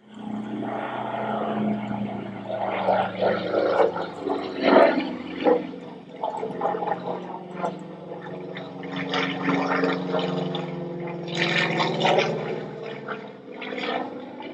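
Light aircraft piston engine running at low power, a steady low drone with a lumpy, uneven sputter over it.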